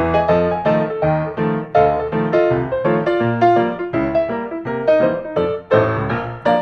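Background piano music, a steady run of quick melodic notes over a bass line.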